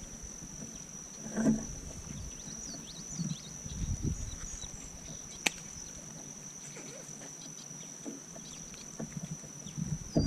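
A steady high-pitched insect drone, with a few soft low knocks and one sharp click about five seconds in.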